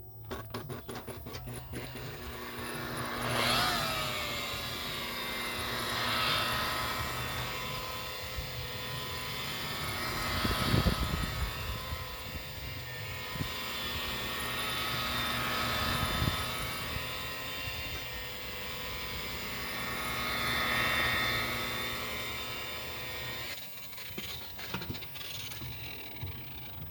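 Electric boat polisher running against gelcoat, its motor tone swelling and dipping every few seconds as it is pressed and worked across the hull, then falling away near the end.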